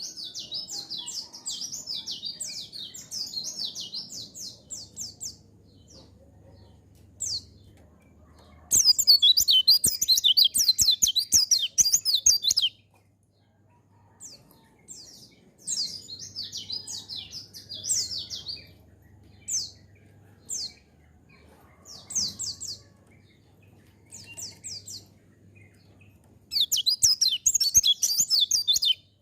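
White-eye (pleci) singing: fast, high twittering song bursts lasting a few seconds each, about four times, with short single high notes in the gaps between.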